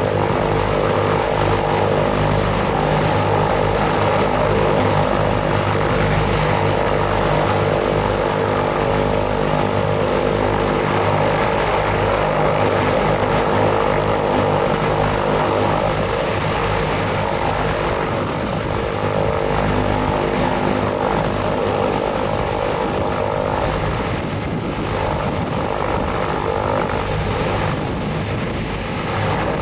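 Piper PA-31-310 Navajo's turbocharged six-cylinder Lycoming piston engines running steadily with their propellers turning, just after engine start.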